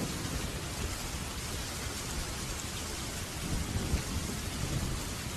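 Steady rain falling, an even hiss, with low thunder rumbling that swells about three and a half seconds in.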